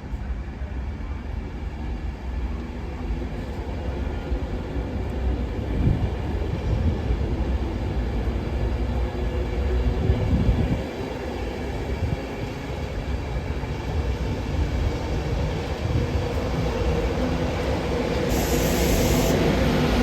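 A train running through a railway station, its low rumble growing steadily louder as it comes closer, with a brief hiss near the end.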